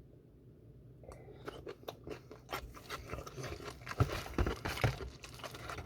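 Crunching and chewing of bhc Puringkle fried chicken, its crisp coating crackling with each bite. It starts after about a second of quiet, with the loudest crunches about four and five seconds in.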